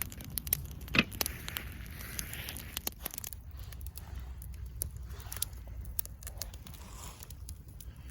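Wood campfire crackling, with irregular sharp pops over a low steady rumble; one pop about a second in is louder than the rest.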